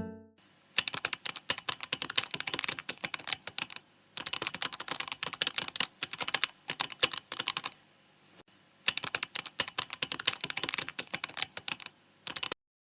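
Typing on a computer keyboard: quick, irregular key clicks in three runs of about three seconds each, with short pauses between them, stopping suddenly near the end.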